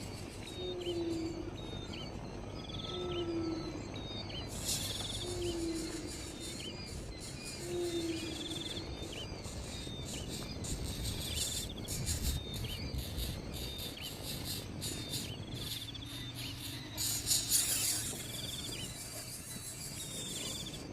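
Outdoor natural ambience: birds calling and insects chirping, with a short low call repeated about every two seconds and many quick high chirps. Two brief rustling bursts of noise come about four seconds in and near the end.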